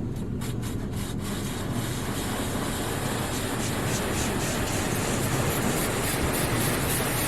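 Hydro Spray Classic touchless car wash machine spraying water onto the car, heard from inside the cabin, with the gantry's machinery running underneath. The spray comes in quick pulses at first, then grows into a louder steady hiss from about three seconds in as it nears the passenger side.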